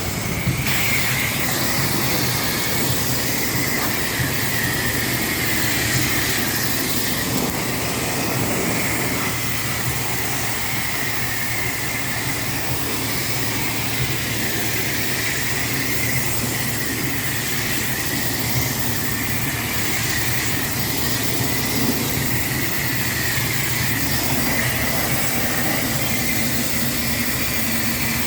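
High-pressure car wash wand spraying water onto a truck: a steady hiss of spray with a constant high whine and a low hum underneath.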